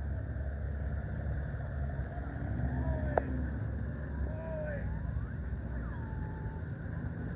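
Low, steady rumble of scramble race car engines running, with faint distant voices and a single sharp click about three seconds in.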